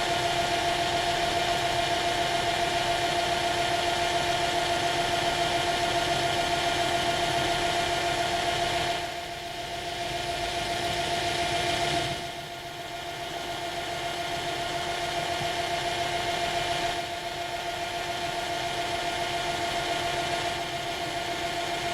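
Machine tool running steadily with a constant whine while a reamer cuts its way through a hole in a metal part. The sound drops in level a few times, about halfway through and again later, then picks back up.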